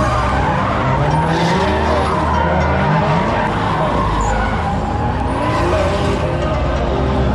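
Drift car engine revving up and down repeatedly with tyres squealing and skidding as the car slides.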